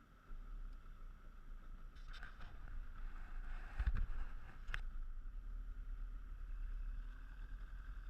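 Speedboat under way on the water: a steady low rumble with a constant higher hum over it, a heavy thump about four seconds in and a sharp click just after.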